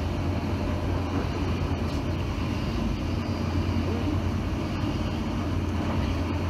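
Steady running noise of a passenger train in motion heard from inside the carriage: a low, even hum under a constant rumble from the wheels and track.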